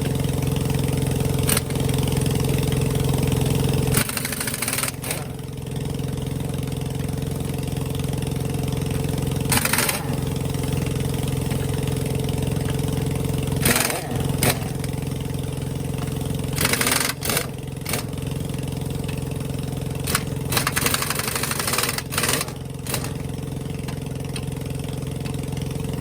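An engine idling steadily, with short bursts of an impact wrench rattling on the truck's lug nuts every few seconds, several in quick succession near the end.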